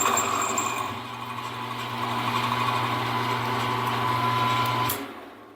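Small milling machine running and taking a light cut on a metal plate held in a vise, a steady motor hum with a whine on top. The machine shuts off a little before the end with a click.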